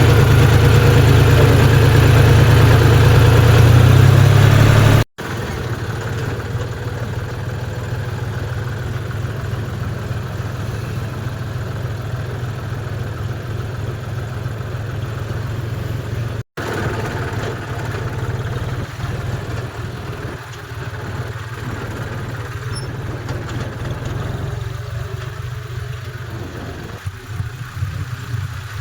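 Tractor diesel engine running steadily. It is loud for the first five seconds, then cuts to a quieter, steady running sound that lasts to the end.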